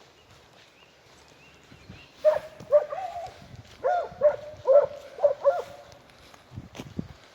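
Segugio scent hound giving tongue: a run of about nine short, pitched barks over some three seconds, the cry of a hound working a scent trail.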